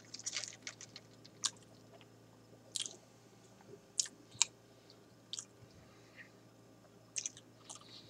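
A person chewing a mouthful of McDonald's garlic white cheddar burger with the mouth closed: quiet, irregular mouth clicks and smacks every second or so.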